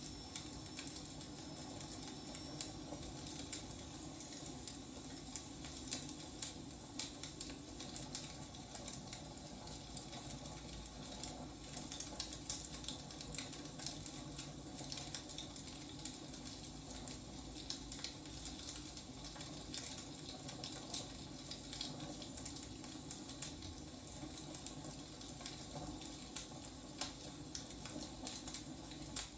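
Firewood burning, crackling with frequent small snaps and pops over a steady soft hiss.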